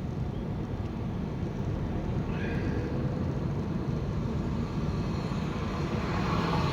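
Steady low rumble of road vehicle noise, growing a little louder toward the end.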